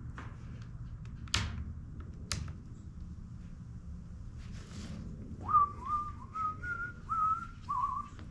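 A person whistling a short tune of about six notes, each sliding up into its pitch, in the second half, after two sharp clicks about a second apart.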